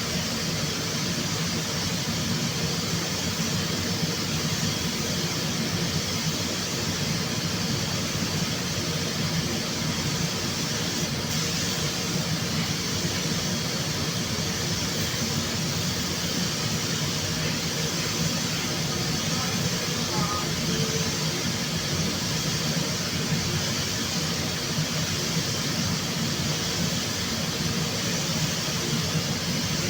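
Steady machine noise, a continuous low hum under an even hiss with no breaks or changes, typical of power tools or air equipment running in a body-repair workshop.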